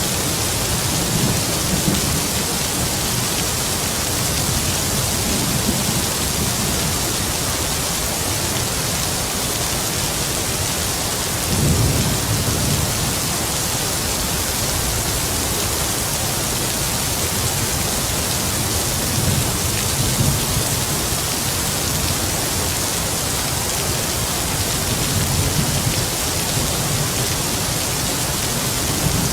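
Heavy rain falling as a steady hiss, with distant thunder rumbling low several times, the loudest roll about twelve seconds in.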